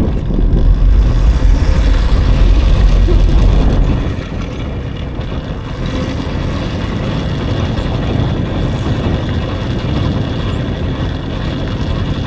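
Wind buffeting the microphone and tyre rumble while riding an electric dirt bike. It is loudest for the first four seconds, then settles into a steadier rush.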